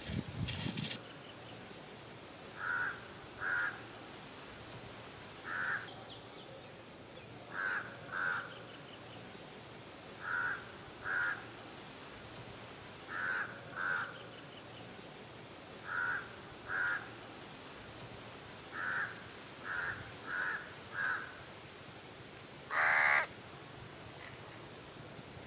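A bird calling repeatedly: short calls, often two in quick succession, every two or three seconds, with one louder, longer call near the end. A brief scraping noise fills the first second.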